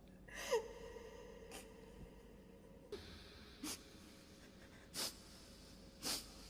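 A person breathing faintly between recited phrases, with short sharp breaths or sniffs about four times. About half a second in, a falling tone settles into a faint held tone.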